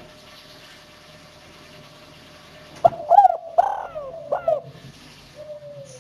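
Spotted dove (tekukur) cooing: three loud coos about three seconds in, each sweeping up and down in pitch, then a softer falling coo near the end.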